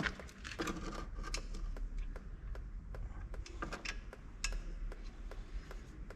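Scattered clicks and knocks of hand tools and metal parts being handled while a braided brake line is fitted to a brake caliper, with a sharp knock right at the start.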